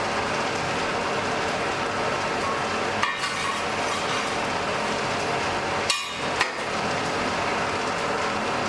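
Blacksmith's forge fire burning with a steady rushing hiss, broken by three sharp metallic strikes: one about three seconds in and two close together about six seconds in.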